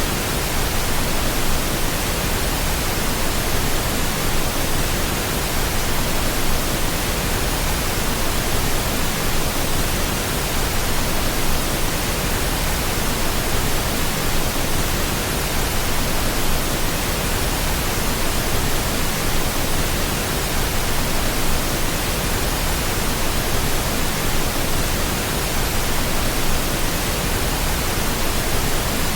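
Steady pink noise: an even, unchanging hiss spread across the whole range of pitch, played as a sleep sound for babies.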